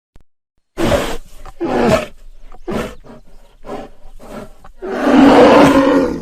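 A big cat roaring: a string of short, loud grunting calls about a second apart, then one long, loud roar near the end.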